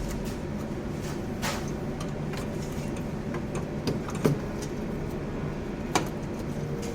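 Steady machinery hum of a ship's engine room, broken by a few short sharp knocks, the loudest about four seconds in and another about six seconds in.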